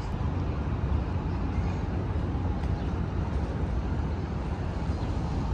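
Steady outdoor city ambience: an even low rumble with a faint hiss above it, without breaks or distinct events.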